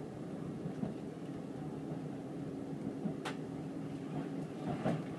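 Shinkansen passenger car running at speed, heard from inside the cabin: a steady low rumble with a faint steady hum, and one sharp click about three seconds in.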